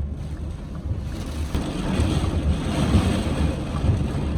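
Wind and heavy rain buffeting a moving vehicle, heard from inside, over a steady low road rumble. The rush of noise grows louder about a second and a half in.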